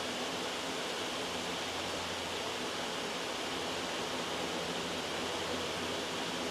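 Steady, loud white noise played as a study background, an even hiss with no change in level.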